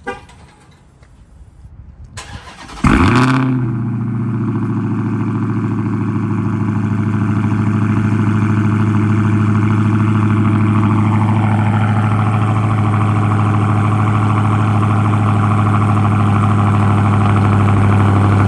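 Dodge Charger's Hemi V8 cold-started: after a couple of quiet seconds it fires with a loud flare about three seconds in, then settles into a steady fast idle while still cold.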